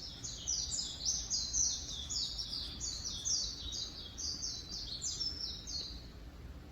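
A bird singing a long, fast run of high notes, each sliding downward, several a second, which stops shortly before the end, over a low steady background hum.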